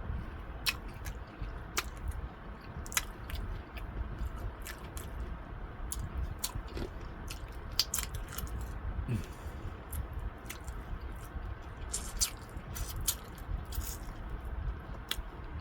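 A person biting and chewing fried chicken drumettes close to the microphone, with irregular sharp mouth clicks.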